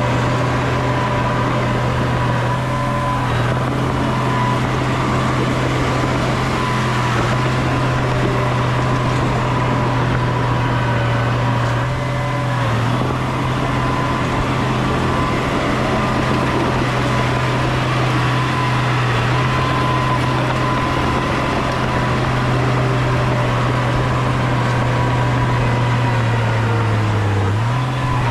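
Bulldozer's heavy diesel engine running steadily at working speed. Its pitch drops briefly near the end as the engine takes load, then recovers.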